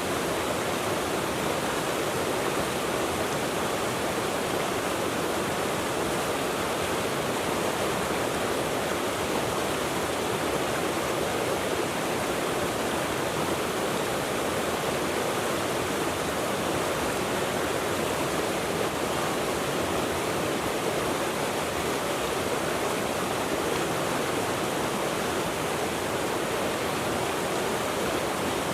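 Shallow river water rushing steadily, an even rush that does not change.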